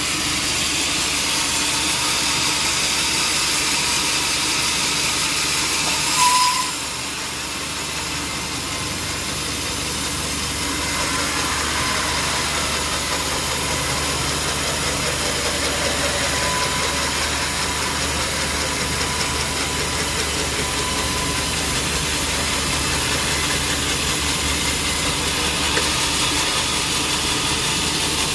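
Sawmill machinery running steadily, with a brief loud squeal about six seconds in, after which the running noise is a little quieter for a few seconds.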